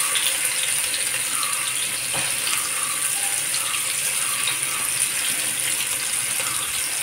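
Chicken pieces coated in chili powder sizzling in hot oil in a frying pan: a steady hiss with a few faint crackles.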